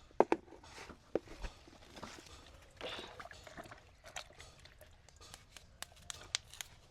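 Scattered light knocks and clicks of cooking utensils and dishes being handled, irregular, with a cluster of sharper clicks near the start and several more in the second half.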